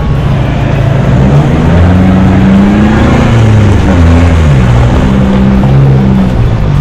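4WD engine pulling along a rough dirt track, its revs rising about two seconds in and dropping back about four seconds in, over a steady rush of tyre and wind noise.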